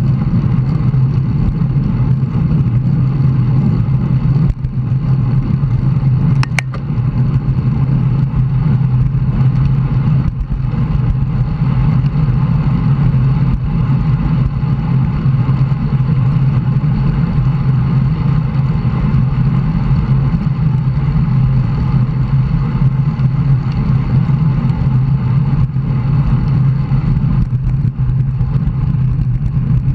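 Steady loud wind rush and road noise on a bicycle-mounted camera's microphone while riding at speed, with one sharp click about six and a half seconds in.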